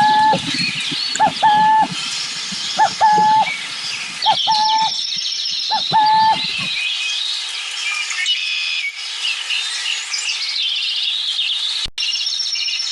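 Burrowing owl calling a two-note coo, a short note then a longer level one, about five times at even spacing before falling silent about halfway through. A steady high chatter of other birds runs underneath.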